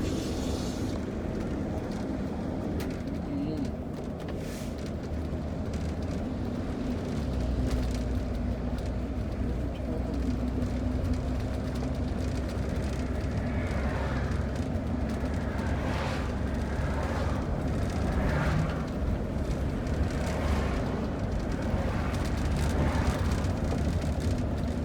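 Steady engine and road rumble heard inside a vehicle's cab while driving a winding mountain highway, getting a little heavier about a third of the way in.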